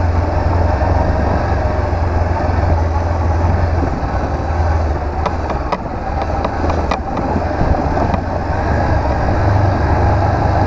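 Honda CB500X's parallel-twin engine running while riding, with steady wind and road noise. A few short sharp clicks or knocks come about five to seven seconds in.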